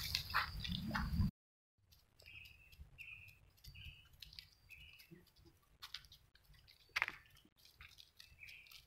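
A bird chirping faintly, short calls repeated roughly once a second, with a few soft knocks. Before that, about a second of low rumbling handling noise that cuts off abruptly.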